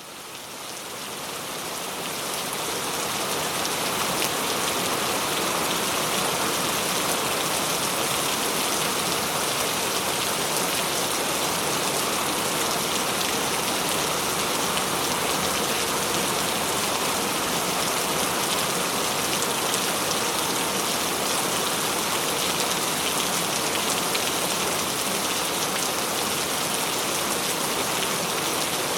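Steady heavy rain falling and pattering on surfaces, fading in over the first few seconds and then holding even.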